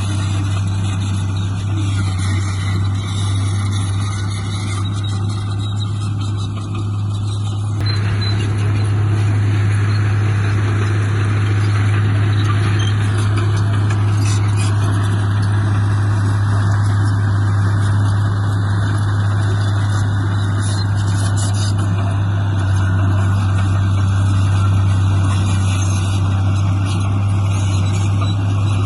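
Heavy construction-machine diesel engine running steadily with a deep hum, getting louder and noisier about eight seconds in as it works harder.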